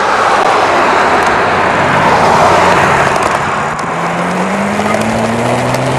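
Loud wind rush on the microphone of a moving e-bike riding into a strong headwind. From about four seconds in, a low whine from the Crystalyte 406 front hub motor rises slowly in pitch as the bike picks up speed.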